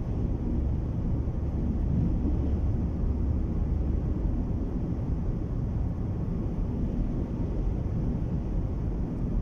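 Strong wind and road noise heard from inside a moving car: a steady low rush.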